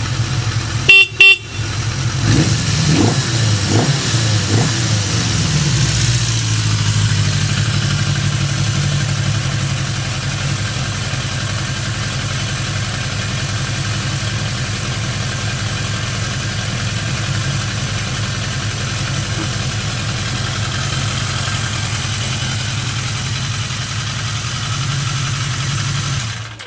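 Yamaha XJ650 Special's air-cooled inline-four running through its exhaust. About a second in, two short loud horn blasts, then a few throttle blips over the next few seconds before it settles to a steady idle, which cuts off just before the end.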